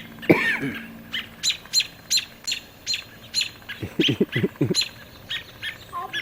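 Northern mockingbird giving sharp, rapidly repeated alarm calls, about three a second. A loud harsh cry sweeps down in pitch just after the start, and a short run of low quick pulses comes about four seconds in.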